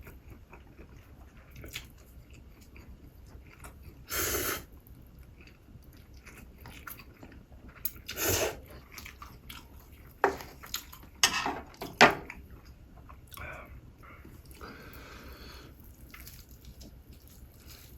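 Close-miked eating: chewing and biting into food, with a few sharp, loud crunches or clicks about ten to twelve seconds in.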